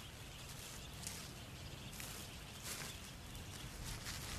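Faint outdoor ambience: a steady low rumble with a few short, high bird chirps.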